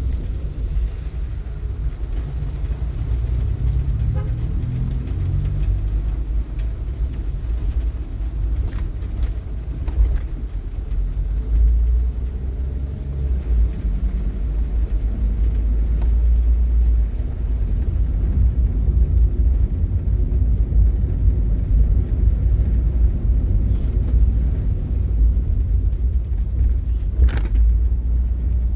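Steady low rumble of a vehicle on the move, with a few faint clicks and one brief sharper noise near the end.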